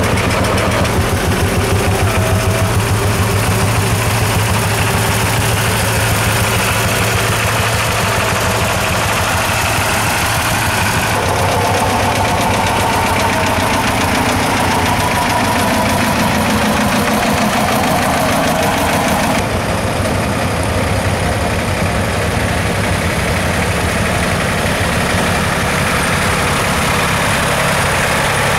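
Tractor engines running at low speed with a steady, rapidly pulsing beat. The sound changes abruptly twice, as a different tractor's engine takes over.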